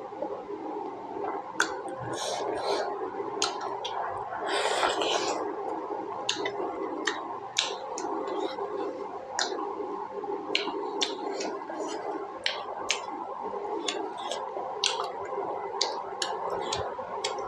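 Close-miked wet chewing of pork momo, with frequent sharp lip smacks and mouth clicks and a brief hiss about five seconds in.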